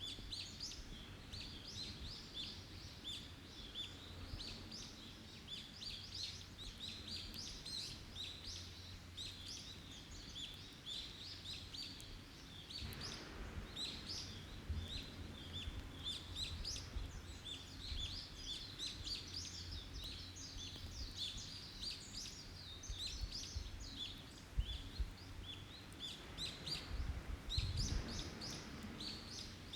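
Wild birds chirping and calling continuously in a dense chorus of quick, high chirps, over a low rumble.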